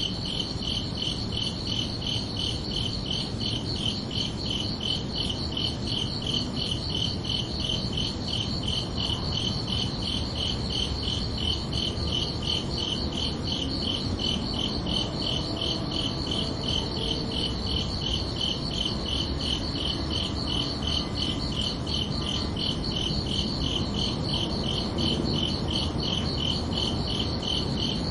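Crickets chirping in a steady, even rhythm, at two different high pitches, over a low background rumble.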